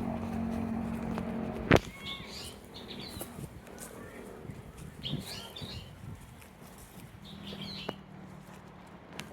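Birds chirping in short, scattered calls. A single sharp click a couple of seconds in is the loudest sound, and a low steady hum is heard at the start and again near the end.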